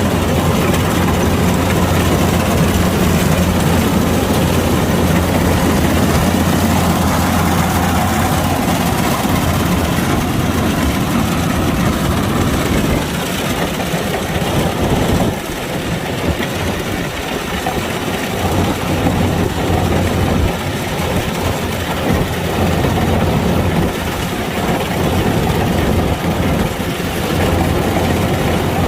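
Kubota DC-105X rice combine harvester running steadily. Its low engine hum weakens for a few seconds about halfway through, then comes back.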